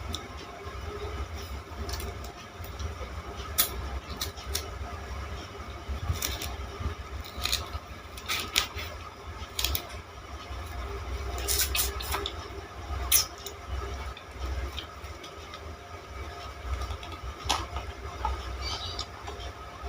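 Biting and chewing a stalk of green sugar cane: sharp, crisp cracks of the hard fibrous cane breaking between the teeth at irregular moments, over a steady low rumble.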